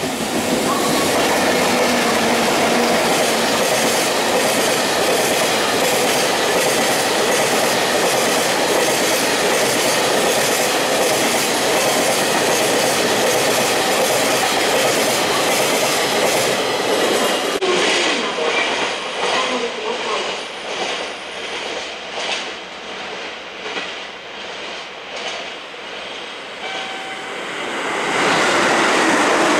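A freight train of two EF64 electric locomotives hauling empty oil tank wagons rolls past. It makes a steady rumble with a regular clickety-clack of wheels over the rail joints. The sound drops and dulls about two-thirds of the way through and grows loud again near the end.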